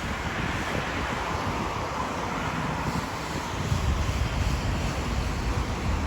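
Steady rushing noise, with wind buffeting the microphone in an irregular low rumble.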